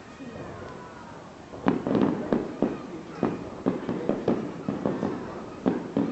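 Aerial fireworks shells bursting in quick succession: about a dozen sharp bangs, each with a low rumbling tail, starting about a second and a half in after a quieter lead-in.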